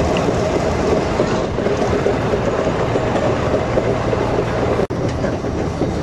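Bernese Oberland narrow-gauge electric train running, heard from an open window on board: a steady rumble of wheels on rail. A brief dropout about five seconds in breaks the sound.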